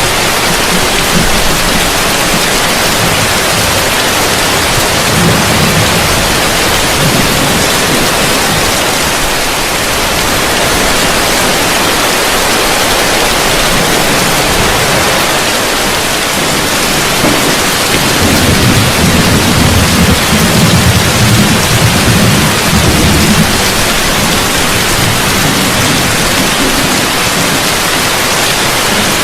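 Heavy rain falling on a roof, a steady, dense hiss, with low thunder rumbling briefly about five seconds in and again, longer, about two-thirds of the way through.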